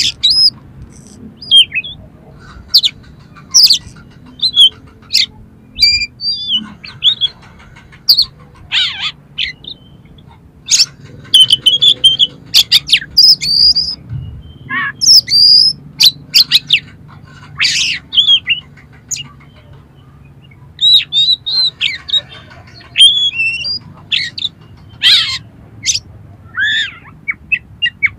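Oriental magpie-robin (kacer) singing loudly in quick bursts of short, harsh calls and whistled notes, many of them mimicked material, with brief gaps between phrases.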